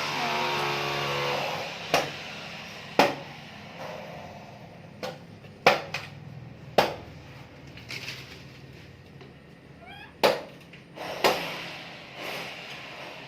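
A series of sharp, separate knocks, about six of them a second or more apart, a blade or hard object striking something solid, with faint short rising chirps between them.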